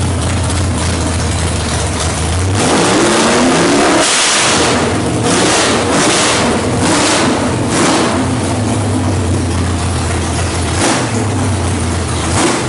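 A 427 cubic-inch stroker small-block Chevrolet V8 idling, then revved several times in short throttle blips about three to eight seconds in, settling back to idle with one more blip near the end.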